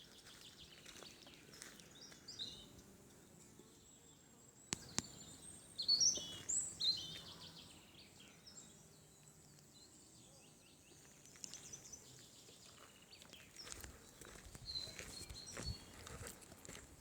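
Songbirds calling and singing faintly in a forest, with a run of louder, quick high chirps about six to seven seconds in. A single sharp click just before the five-second mark.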